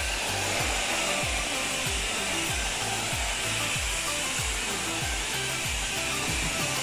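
High-pressure water wand of a self-service car wash spraying rinse water onto a car: a steady hiss, with background music and a steady beat underneath.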